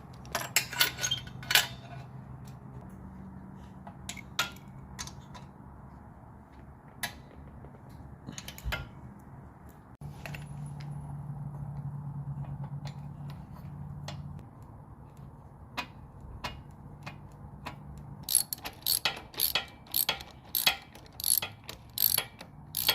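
Hand tools working on a minibike: scattered metallic clicks and knocks over a low steady hum, then near the end a quick, even run of clicks, about two or three a second.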